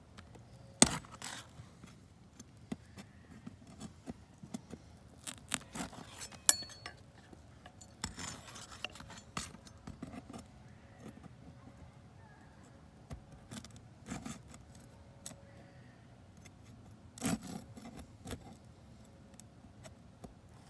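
Hand work on a roof during a repair: scattered sharp knocks, clicks and metallic chinks, with a longer scrape about eight seconds in. The loudest strikes come about a second in and about six and a half seconds in.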